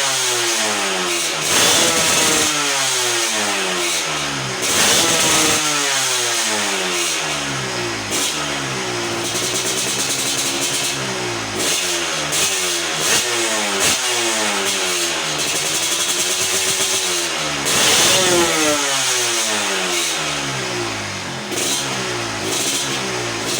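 Yamaha RXZ two-stroke single-cylinder motorcycle engine through an aftermarket expansion-chamber exhaust, revved again and again: the engine speed climbs sharply, then falls away, with a few sharp blips near the start, a few seconds in and late on.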